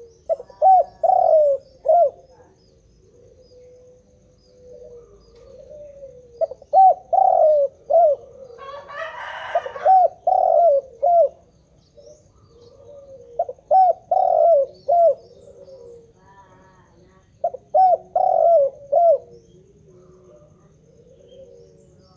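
Spotted dove (tekukur) cooing: four phrases of a few short coos each, repeating every few seconds. A brief noisy rustle falls in the middle of the second phrase.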